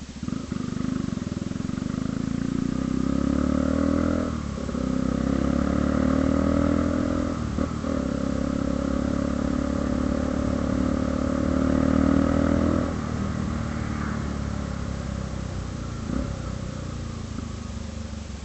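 Honda Hornet motorcycle accelerating hard through the gears: the engine note rises, breaks at two gear changes about four and seven and a half seconds in, then drops when the throttle closes about thirteen seconds in and runs on at a lower note.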